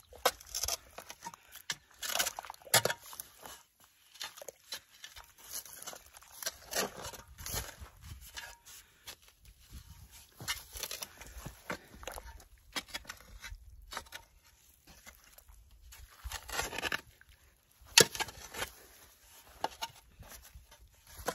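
Dirt being shovelled back in around a fence post: irregular scrapes and the patter of falling soil, with a few sharp knocks, the loudest about eighteen seconds in.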